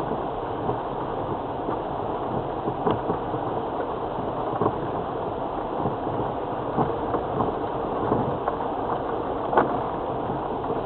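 Cabin noise of a 2002 Land Rover Freelander TD4 turbodiesel driving slowly along a muddy track: steady engine and tyre drone with occasional knocks and clunks from the body and suspension over ruts, the loudest near the end.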